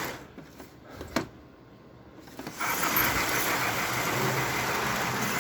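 S-gauge model steam locomotive running on its track with its train, a steady mechanical running noise that swells up sharply about two and a half seconds in as it comes near. Before that it is fairly quiet, with a single click about a second in.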